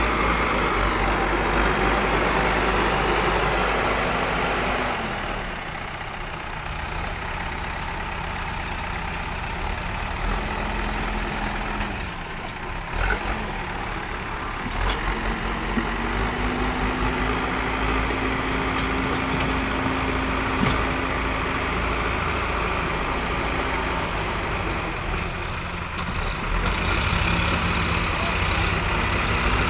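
Diesel engine of heavy machinery running, its note falling and rising a few times as the revs change, then holding higher for several seconds in the middle.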